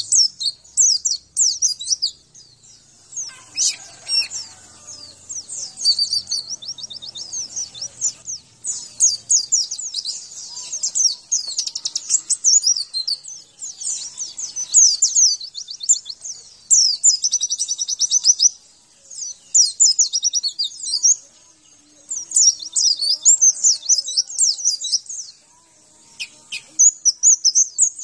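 White-eye (pleci) song: rapid, high-pitched twittering phrases repeated in bursts with short pauses between them, typical of a master-song recording played to get a caged white-eye singing.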